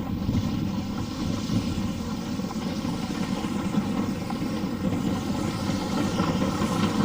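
A train running steadily: a low mechanical rumble with faint steady tones above it.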